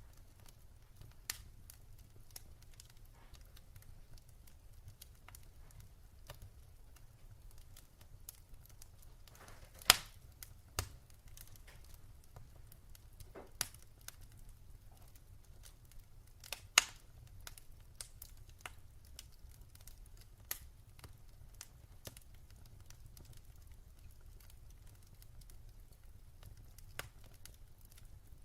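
Wood fire in a fireplace crackling: scattered sharp pops and snaps at irregular intervals, two of them much louder than the rest, over a faint low rumble.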